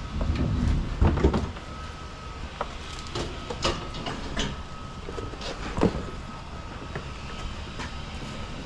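A series of irregular knocks and clunks over a low rumble, the loudest cluster about a second in.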